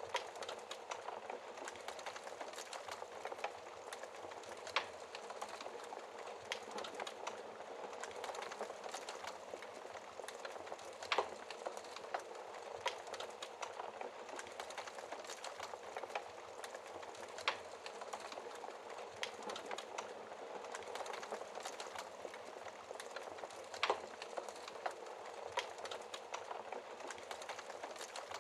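Wood fire crackling in a fireplace: a steady bed of fine crackle with louder sharp pops every few seconds.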